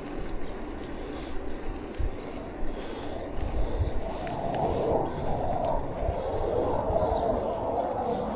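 Riding noise of a bicycle recorded on an action camera: wind buffeting the microphone with uneven low thumps over a steady rush of tyre and road noise. A steadier hum comes up about halfway through.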